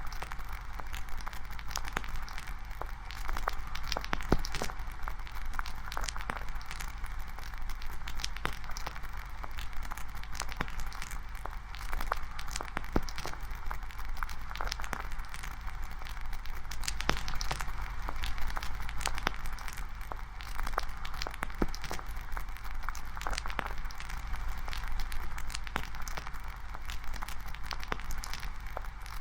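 Campfire burning, crackling with frequent sharp pops over a steady hiss.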